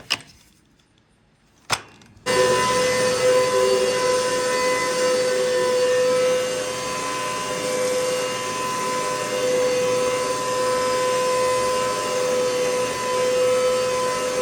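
A couple of clicks, then about two seconds in the Hoover MaxLife vacuum cleaner's motor switches on suddenly and runs steadily with a constant whining tone.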